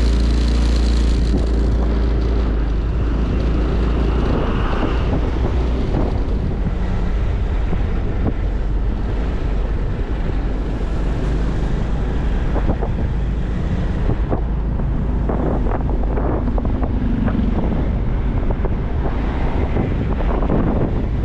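Motorcycle riding at speed with heavy wind buffeting on the microphone; the engine is heard clearly in the first two seconds, then sits under the steady rush of wind.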